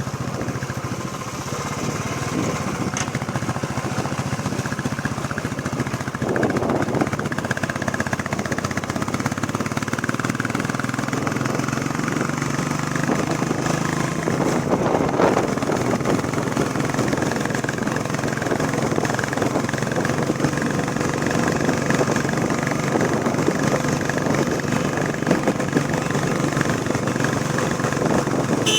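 Royal Enfield Bullet Classic 350's single-cylinder engine running steadily while the motorcycle is ridden.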